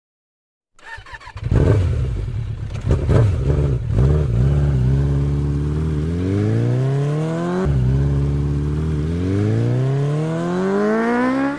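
Suzuki GS150 motorcycle engine revving unevenly at first, then accelerating: the pitch climbs, drops suddenly as it shifts up a gear, and climbs again before cutting off.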